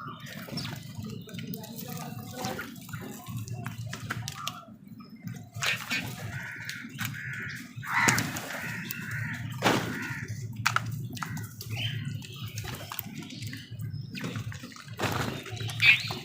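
Crows calling harshly amid a busy run of sharp clicks, taps and splashy, watery noises, over a steady low hum.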